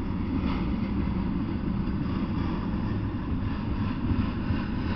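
Double-stack intermodal freight train rolling past, a steady low rumble of its wheels on the rails.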